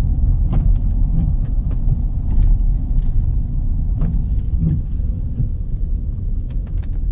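Steady low rumble of a car or truck driving on a road, heard from inside the cab, with light clicks and rattles here and there.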